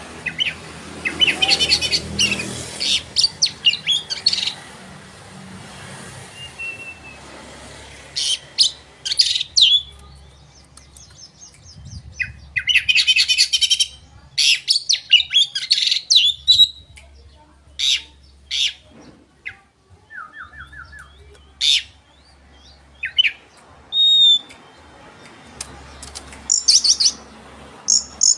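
Oriental magpie-robin (kacer) singing vigorously: bursts of rapid chattering notes, trills and short clear whistles, with brief pauses between phrases. This is the kind of lively song played to provoke rival male kacer.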